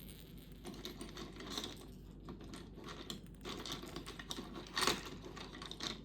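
Small hard pieces of a toy clicking and rattling irregularly as it is handled, with the loudest rattle a little before five seconds in.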